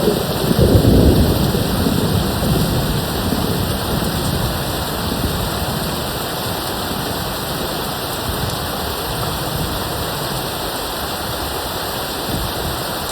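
Steady heavy rain hissing, with a low rumble of thunder near the start that fades away over the next few seconds.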